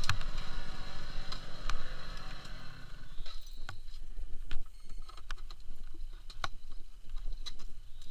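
Motorcycle engine idling, then switched off about three seconds in, followed by scattered short clicks and handling noises.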